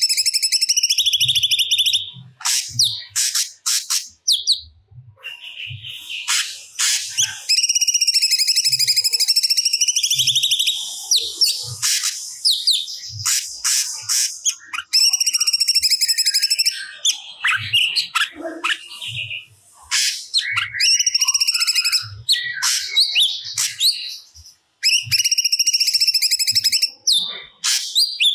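Cucak cungkok singing vigorously. Long, fast-warbling rattled phrases of a few seconds each, the longest about seven seconds, alternate with short sharp call notes.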